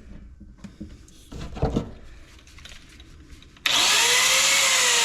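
A few light knocks of parts being handled, then about three and a half seconds in a power tool switches on abruptly and runs loud, its whine rising briefly and then slowly falling.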